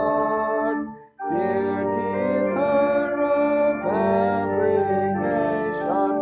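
Voices singing a liturgical hymn with organ accompaniment, breaking off briefly between phrases about a second in.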